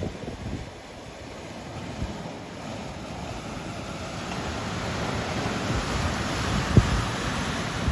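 Sea waves washing onto the shore, one wave's hiss swelling over several seconds and peaking near the end, with gusts of wind buffeting the microphone in low thumps.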